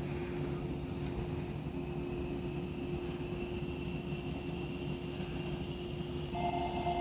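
Steady hum of a 115 series electric train, with one constant tone over a low rumble. About six seconds in, a second pair of steady higher tones joins.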